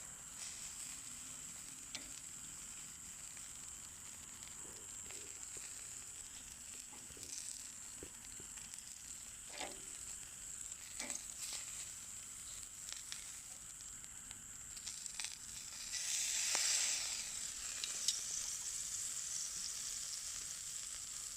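Meat sizzling on a fire-pit grill over a campfire, a steady high hiss with scattered pops and crackles. About three quarters of the way in the sizzle swells louder for a couple of seconds.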